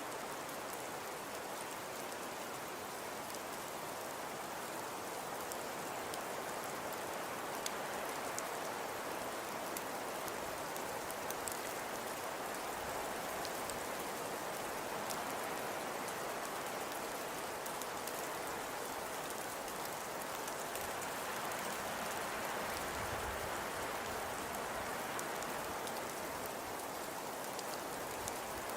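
Fireplace fire crackling: a steady hiss with scattered small pops and snaps.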